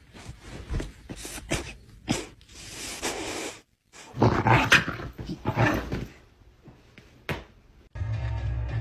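A dog making short bursts of vocal noise, broken by a few sharp clicks, then music begins near the end.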